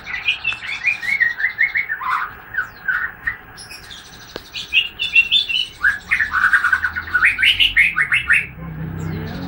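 Juvenile white-rumped shama, still in spotted young plumage, singing out in full voice for one of the first times. Its song comes in three phrases of quick chirping notes with short pauses between, and the last phrase is the longest and fastest.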